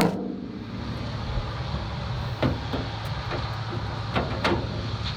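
A few scattered light clicks and clunks as the engine hood of a Gleaner combine is raised and propped up, the loudest midway and near the end, over a steady low rumble.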